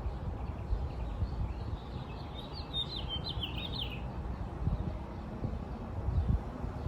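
A bird singing one short, quick phrase of high sliding notes about two seconds in, over a low, uneven rumble.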